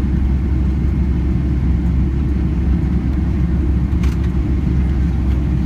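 Boeing 767-300 cabin noise heard from a window seat: a loud, steady low rumble of the jet engines and airflow.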